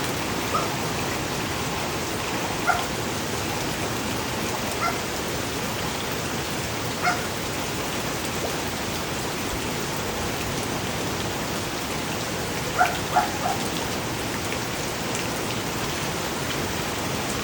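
Steady rain falling on a rooftop, an even hiss of drops. A few brief pitched calls cut through it now and then, three of them close together just under two-thirds of the way in.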